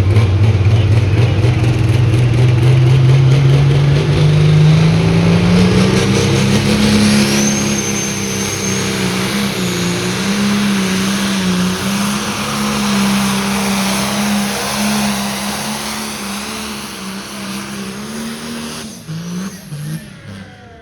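Pulling tractor's engine run hard during a pull. The revs climb over the first several seconds, then hold, wavering with the load, with a high whine for a couple of seconds. About a second before the end the engine drops off and sputters as the pull ends.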